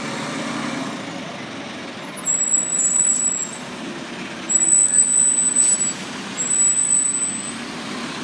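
Fire engine running on the road while responding, a steady engine and road noise. Over it come three steady, high-pitched tones of about a second each, starting about two seconds in.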